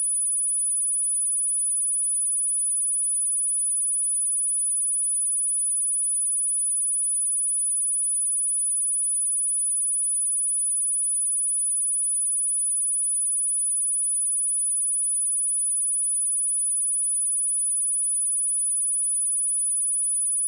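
A steady, very high-pitched 9891 Hz sine-wave test tone, one pure unbroken pitch.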